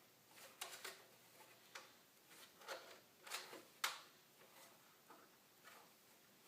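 Scattered faint plastic clicks and taps, the loudest nearly four seconds in, as the Bounty Hunter Gold Digger metal detector's plastic control box is handled and its battery compartment opened to check for batteries.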